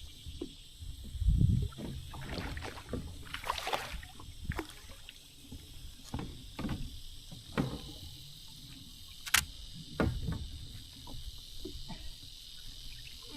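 Scattered knocks, bumps and a few sharp clicks of gear being handled on board a kayak, over a steady high hiss.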